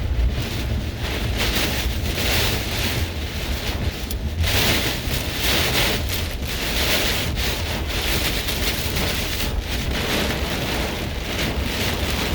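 Heavy thunderstorm rain with gusting wind that swells and eases every second or two, and wind buffeting the microphone as a steady low rumble.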